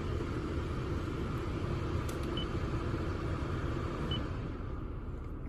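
Steady low hum and rumble inside the cabin of a 2006 Toyota Brevis, its 3-litre inline-six 2JZ-FSE engine idling with the air conditioning running. Two short high beeps sound about two and a half and four seconds in.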